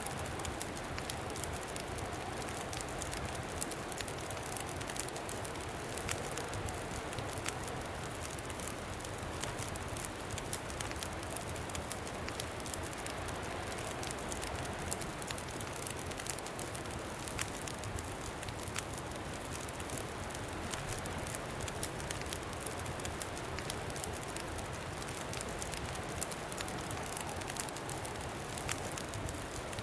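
Campfire crackling, with frequent sharp pops, over a steady rush of wind that rises and falls faintly in pitch.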